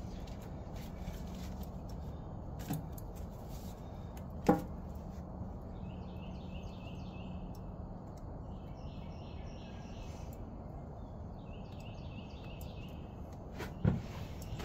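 Birds chirping in short repeated phrases over a steady low hum, with two sharp knocks in the first five seconds and another near the end.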